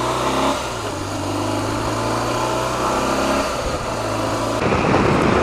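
BMW motorcycle engine pulling away from a standstill and accelerating, its note broken by gear changes about half a second and three and a half seconds in. Wind noise on the microphone grows loud near the end as the bike gathers speed.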